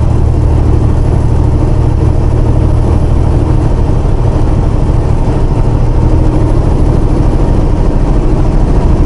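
Semi truck's diesel engine running, heard from inside the cab as a loud, steady low drone with road or cab noise over it.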